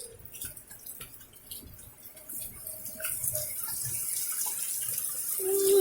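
Rainwater pouring and splashing, with scattered light splashes at first and a steady hiss that builds up and grows louder from about halfway through.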